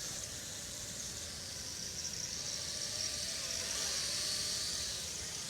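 Mini toy drone's motors and propellers whining in flight, a high, thin whine that wavers a little in pitch as it flies at full throttle. It is running sluggishly in turns, which the pilot puts down to a weakening battery in the cold.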